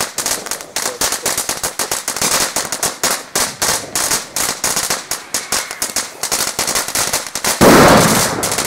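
Firecrackers going off in a rapid, uneven crackle of many sharp bangs a second, like a firecracker string burning through. Near the end a single much louder, deeper bang stands out and dies away over about a second while the cracking goes on.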